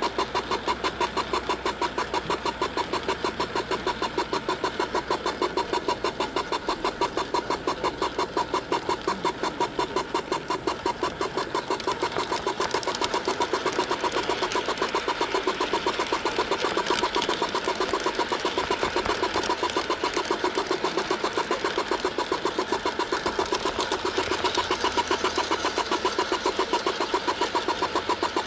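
Garden-scale model train running, heard from on board: a steady mechanical hum with a fast, even clicking of about four beats a second.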